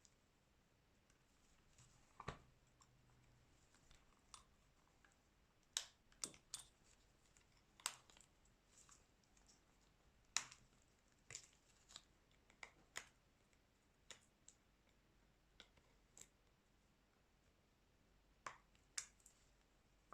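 Small sharp clicks and taps, about fifteen at irregular intervals, from hand tools and plastic and metal phone parts being handled during a smartphone teardown, over near silence.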